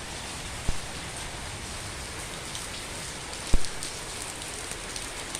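Rain falling steadily in a garden, a constant hiss, with two short low thuds, one near the start and one past halfway.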